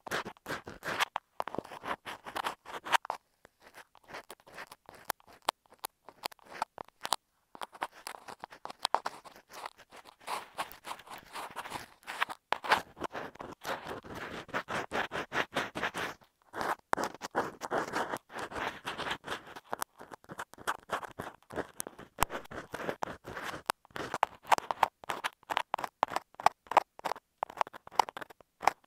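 An ear pick scratching and scraping directly on an earphone microphone in quick, uneven strokes, with a few short pauses.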